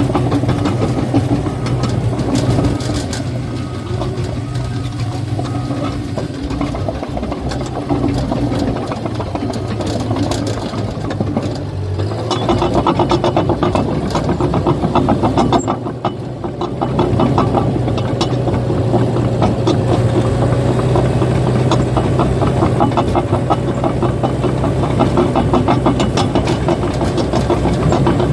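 Cat bulldozer's diesel engine running steadily, with a rapid metallic clatter from its steel tracks that becomes denser and louder about twelve seconds in as the machine moves.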